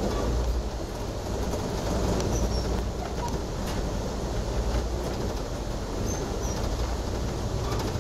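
Passenger train running at speed, heard from inside the car: a steady low rumble of wheels on track.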